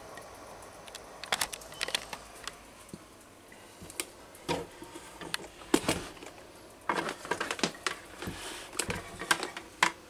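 Table fan being handled and turned over by hand, with irregular clicks, taps and light knocks as it is set down and moved. The fan is switched off.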